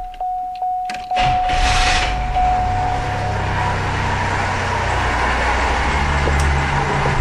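A car's warning chime sounding as a steady tone, then about a second in the engine is cranked, catches and settles into a steady idle.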